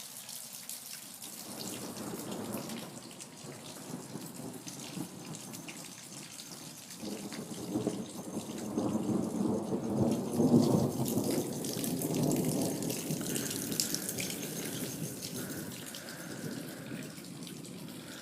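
Rain falling and dripping with the rumble of thunder, which swells in the middle and then dies away.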